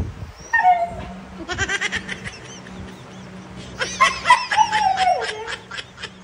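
Siberian Husky vocalizing in whiny, pitched calls while begging for food: a short falling whine, a quick run of short yelps about a second and a half in, then a longer wavering call that slides down in pitch near the end.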